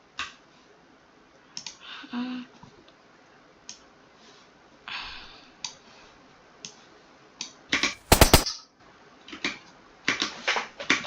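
Scattered computer mouse and keyboard clicks while editing. About eight seconds in comes a loud, half-second cluster of sharp, gunshot-like strokes from a sound effect played back on the computer, with a second, weaker run of sharp strokes near the end.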